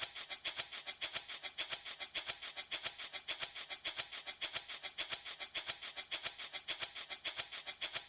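Handmade baby rattle shaken steadily, a bright, high rattling in an even rhythm of several strokes a second.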